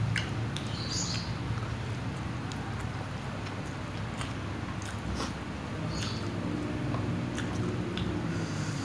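Close-up chewing and mouth sounds of someone eating fried instant noodles, with scattered light clicks of a plastic fork against a plastic tray.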